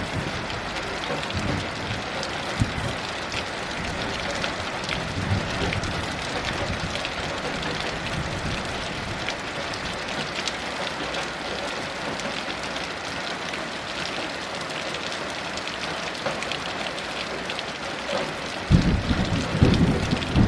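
Heavy rain falling steadily, a dense hiss dotted with individual drops hitting surfaces. Near the end a low rumble of thunder swells in.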